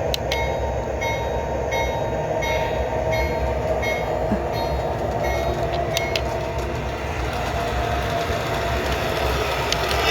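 Remote-controlled toy BNSF diesel locomotive set running along its track: a steady motor-and-wheel rumble mixed with the locomotive's built-in diesel engine sound effect, with light regular ticks about twice a second and a few sharp clicks around the middle.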